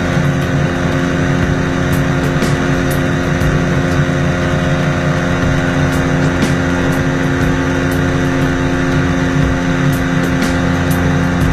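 Engine of a homemade boat-engine helicopter running steadily at a constant speed, an even, unchanging hum.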